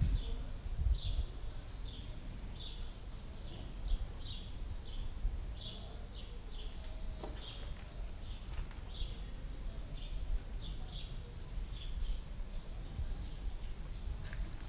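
Small birds chirping, short high chirps repeating about twice a second, over a steady low rumble.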